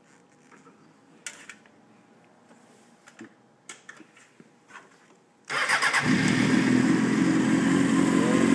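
A few faint clicks, then about five and a half seconds in a 2006 Honda CBR600F4i's inline-four engine starts: a brief crank and it catches, then runs steadily.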